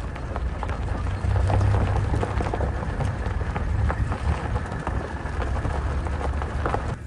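Safari vehicle driving along a rough dirt track: a steady low engine and road rumble with frequent rattles and knocks from the body jolting over bumps.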